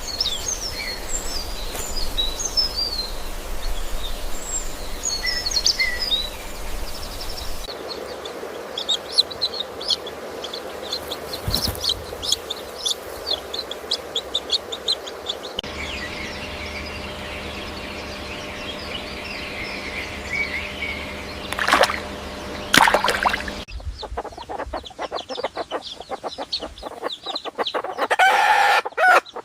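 Birds chirping: many short, high chirps and cheeps, with the background changing abruptly every several seconds as one short clip cuts to the next.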